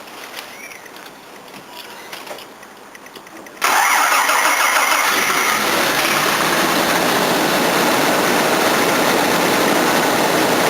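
1983 Jaguar XJ6's 4.2-litre straight-six starting from cold: quiet at first, then about three and a half seconds in the engine suddenly comes in loud and runs on steadily at idle. It runs a bit rattly, the clatter of a cracked flexplate (drive plate) between engine and automatic gearbox.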